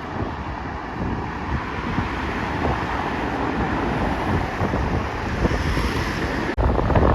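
Wind buffeting the microphone over the steady rush of a jet airliner arriving, which grows slowly louder. A faint high engine whine comes in briefly, and a heavier gust hits near the end.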